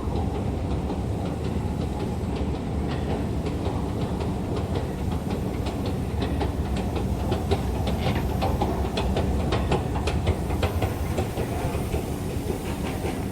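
Train running on rails: a steady low rumble with rapid rattling clicks, which grow busier in the second half.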